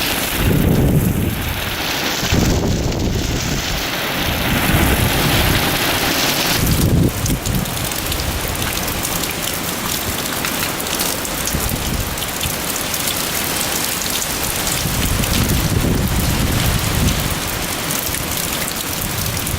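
Heavy typhoon rain pouring down in a steady loud hiss, with low rumbles that swell and fade a few times.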